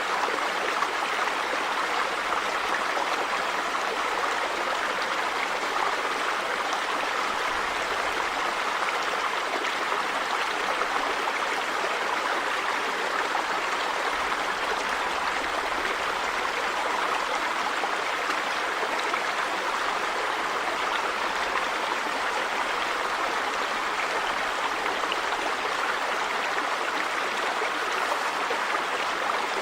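River water running over stones, a steady rushing and gurgling.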